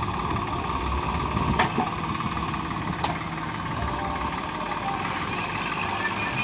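Heavy diesel engine running steadily, with a couple of sharp knocks about one and a half and three seconds in.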